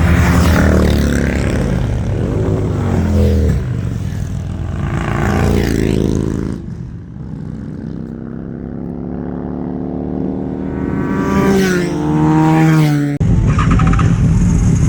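Motorcycle engine pulling through the gears: the pitch climbs and drops at each shift, eases off about halfway, then rises in one long climb before changing abruptly near the end.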